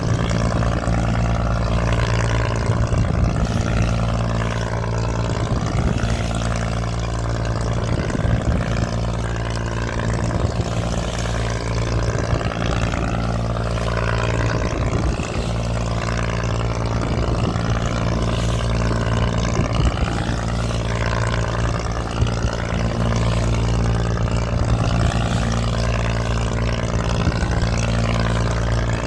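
Boat engine running steadily at constant speed, a deep drone, with a rushing hiss above it that swells and fades every couple of seconds.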